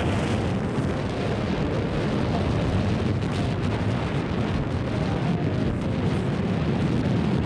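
Wind buffeting the microphone on a motorboat under way, mixed with the rumble of its engine and the rush of water, a steady noise with no breaks.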